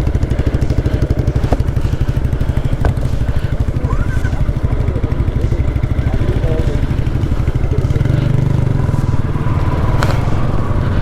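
Motorcycle engine running steadily under way, its exhaust pulsing fast and low.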